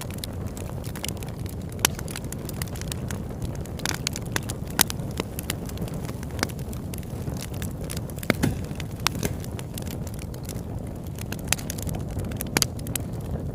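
Campfire burning: wood crackling and popping in irregular sharp snaps over a steady low rush of flame.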